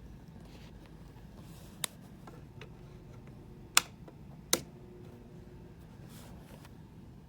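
Objects being handled, with light rustling and three sharp clicks, the second and third the loudest, close together about halfway through.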